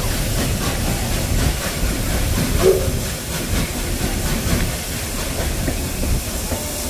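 Train running on the rails: a steady, dense rumble with scattered clicks and hiss, and a short tonal squeak about two and a half seconds in.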